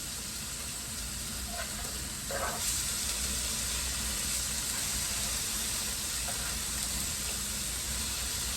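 Food sizzling in oil in a hot frying pan: a steady frying hiss that grows louder about two and a half seconds in.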